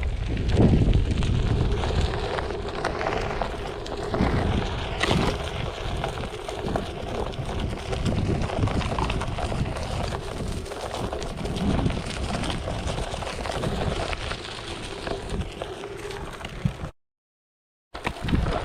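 Wind buffeting the action camera's microphone over the rolling crunch of a Onewheel XR's tyre on a dirt trail. The sound cuts out completely for about a second near the end.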